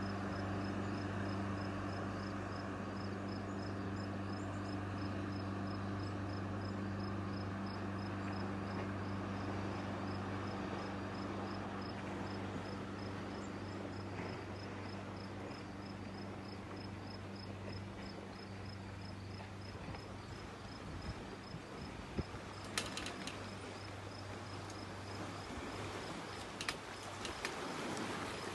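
Steady low drone of a motorboat's engine out on the lake, its upper notes fading about halfway through, over an even rushing wash. An insect chirps in a fast, regular pulse throughout, and a few sharp clicks come near the end.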